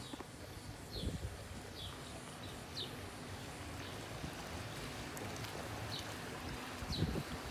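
Small birds giving short high chirps, one every second or so, over a low rumble of wind on the microphone. Two soft low thumps, about a second in and near the end.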